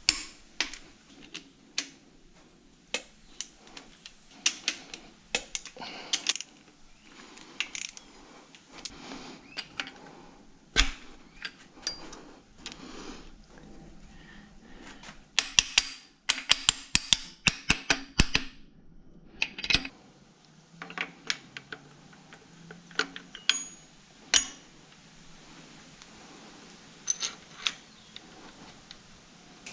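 Hand tools and metal fasteners clicking and clinking at irregular intervals during engine assembly, with a fast run of clicks about halfway through.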